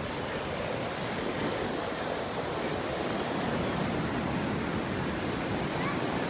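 Sea surf washing onto the shore: a steady, even rush of water.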